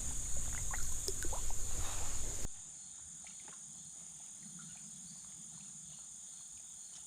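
Insects chirring steadily in a high, even drone, with water splashing and small knocks for the first two and a half seconds. Then the sound drops abruptly to the quieter insect drone alone.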